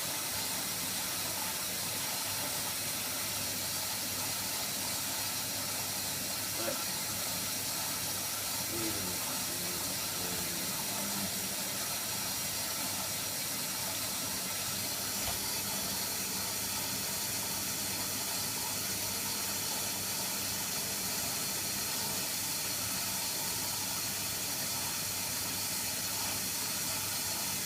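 Hoover Nextra washer-dryer taking in water for a rinse, a steady hiss of water rushing in through the inlet valve.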